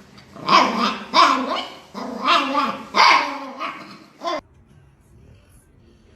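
A dog barking, about five loud barks over four seconds, ending suddenly.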